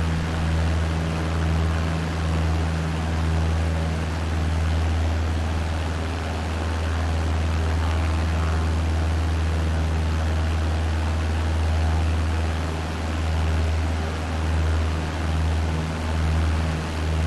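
Cessna's piston engine and propeller droning steadily from inside the cabin, a deep hum with a haze of airflow noise over it and a slow pulsing swell in the drone.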